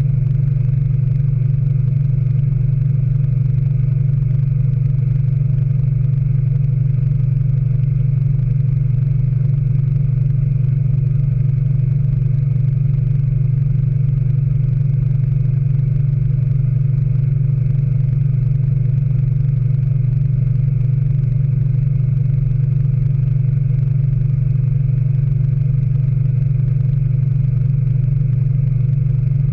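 Speed Queen AWNE92 washing machine spinning at steady full speed in its final spin, a constant low hum with a few faint steady tones above it.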